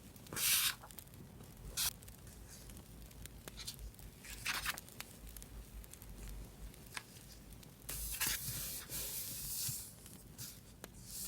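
Paper being handled and torn in short rustling strokes, with a longer rubbing, tearing stretch of about two seconds near the end.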